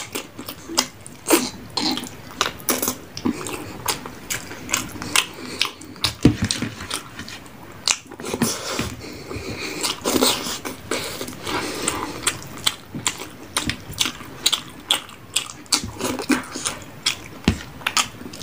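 A person chewing and eating food, with irregular wet smacks and clicks of the mouth several times a second.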